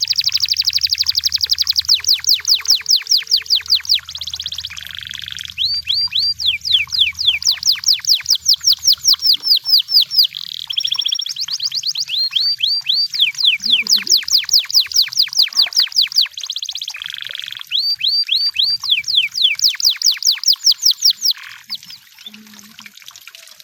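Canary singing: fast rolls of rapidly repeated falling whistled notes, several a second, in phrases of a few seconds broken by short pauses and a few held notes.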